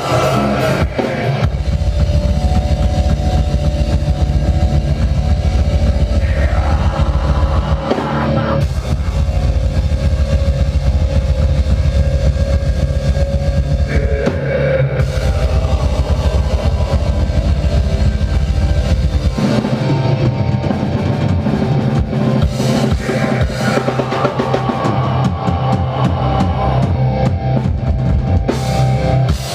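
Progressive death metal band playing live, an instrumental passage: full drum kit with cymbals and a very rapid, dense bass drum for most of it, easing to a sparser beat about two-thirds of the way in.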